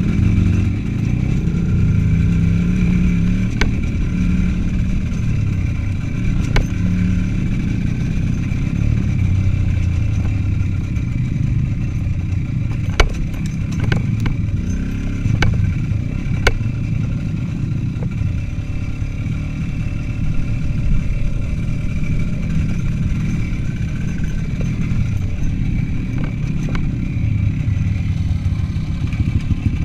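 Motorcycle engine running while riding, its pitch rising and falling with the throttle, with several sharp knocks and clatter along the way.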